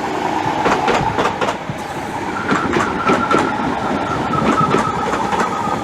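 Class 315 electric multiple unit arriving at the platform, its wheels clicking over rail joints with a steady whine, and a higher whine joining about two seconds in.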